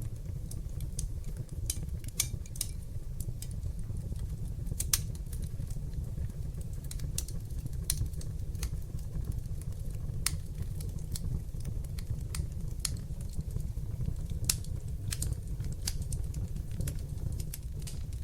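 Wood fire burning in a fireplace: a steady low rumble of flames with irregular sharp crackles and pops, a few louder pops standing out.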